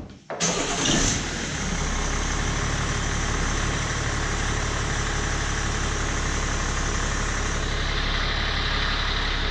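BMW 530d's 3.0-litre straight-six diesel (M57) starting. It catches within about half a second, revs briefly about a second in, then settles into a steady idle. It starts correctly and runs evenly, freshly rebuilt with a replacement engine, cylinder head, rockers, lifters and camshafts.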